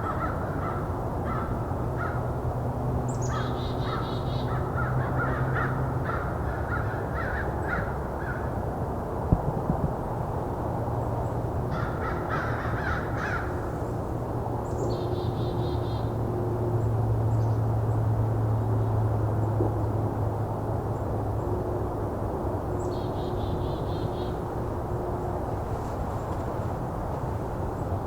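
A group of American crows cawing in rapid, overlapping series, then in one more short burst before easing off. It is an excited chorus, which could mean a predator in the area or could just be rival crows. A few short, higher calls sound in between, over a steady low hum.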